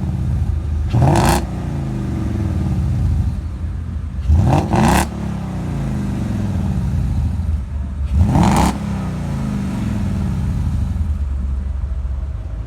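Ford Mustang's 5-litre Coyote V8 revved three times, about a second in, near the middle and past two-thirds. Each time the pitch rises sharply, then falls back to idle.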